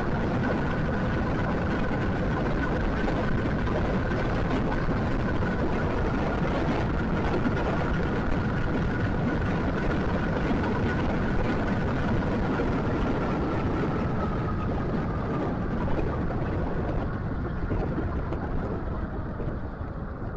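Scooter riding along: steady wind and road rumble with a thin high whine, which dips a little in pitch and fades as the ride slows near the end.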